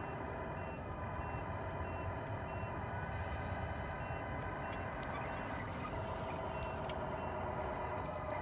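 Tamiya 1/14 Scania RC truck's sound unit playing a simulated truck engine running, with a reversing beeper beeping at a steady, even pace.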